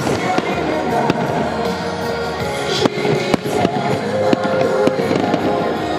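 Fireworks salute bursting overhead, several sharp bangs and crackles, over loud music playing throughout.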